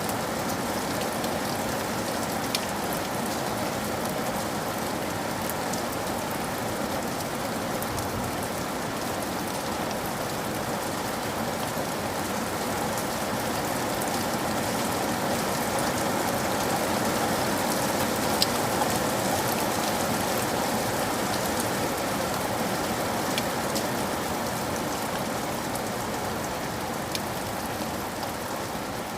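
Steady rain falling, an even hiss with a few faint sharp ticks of single drops scattered through it.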